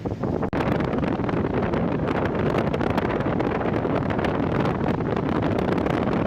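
Strong storm wind buffeting the microphone: a loud, dense, steady rush with a brief drop about half a second in.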